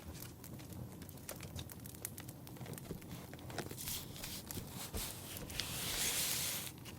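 Fireplace crackling with scattered sharp pops, and a paper rustle of about a second near the end as a book page is turned.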